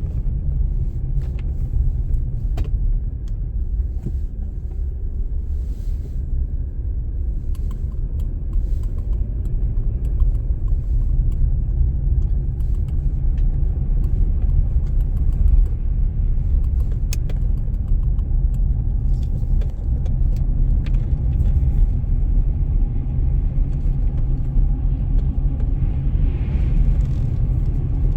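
Steady low rumble of a car driving on a snowy road, heard inside the cabin, with scattered light clicks and ticks.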